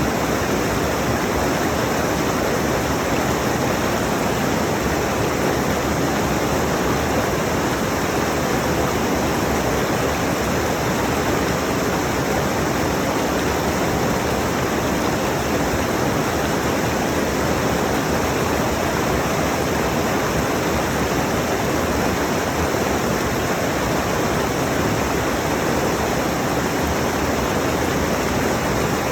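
Rushing mountain stream: a steady, even rush of fast-flowing water over rocks.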